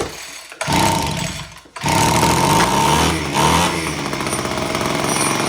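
Two-stroke engine of a Homelite HT17 hedge trimmer firing in two short bursts that die out, then starting about two seconds in and running on. It revs up and down before settling, with the choke just taken off after it first caught.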